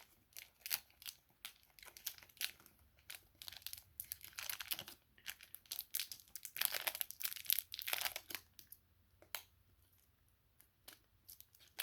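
Packaging of a mailed trading-card package being torn open and crinkled by hand, in quick irregular crackles and rips, with a short lull near the end.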